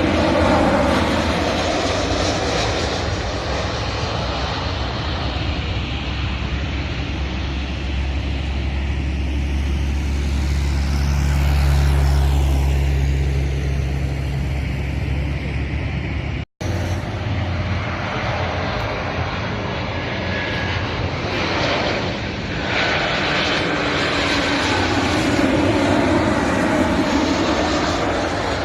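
Airliner engines passing close by, a loud steady rumble with sweeping shifts in pitch as the aircraft goes past, the low rumble heaviest about halfway through. The sound cuts out abruptly for an instant a little past halfway, then the engine noise carries on.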